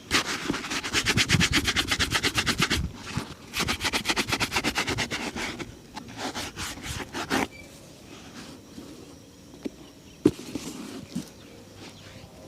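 A shoe being buffed with rapid back-and-forth rubbing strokes, about ten a second, in two runs with a short pause between. Near the end it goes quieter, with a few light knocks and clicks.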